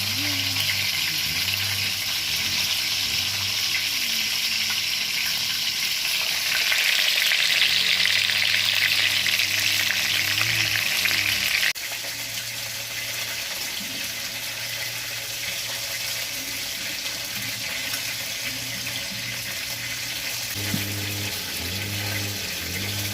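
Chicken frying in hot oil, a steady sizzle that grows louder about six seconds in, then drops suddenly to a quieter sizzle just under halfway through.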